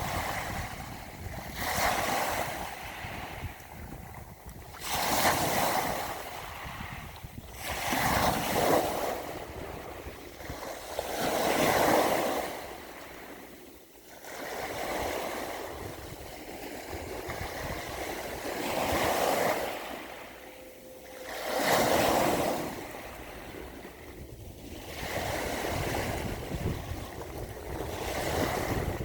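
Sea waves breaking and washing in, swelling and fading every few seconds, with about seven louder surges.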